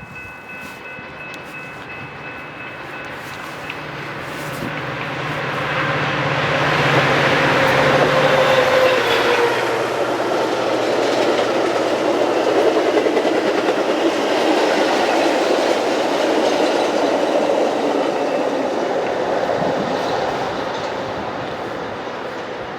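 A train passing close by: its sound builds as it approaches, with a low engine hum that passes about eight to nine seconds in. Then comes the steady clatter of wheels on the rails as the cars go by, easing off near the end.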